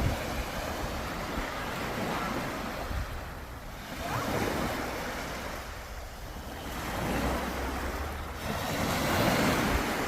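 Sea waves breaking and washing up on a shore, several swells rising and falling in a steady surge.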